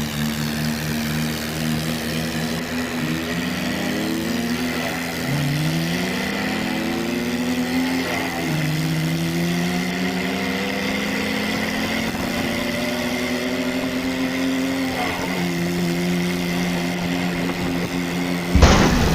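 Toy RC tractor's engine sound running steadily, with several slow rising revs in the middle. A sharp knock comes near the end.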